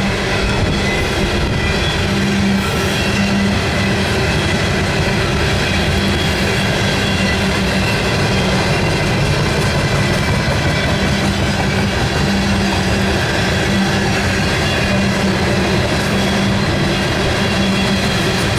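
A freight train rolling past: a steady, loud rumble of wheels on rail that does not let up, with faint steady high tones riding over it.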